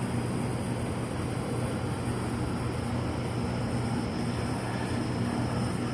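Steady mechanical hum of running machinery, with a constant low drone.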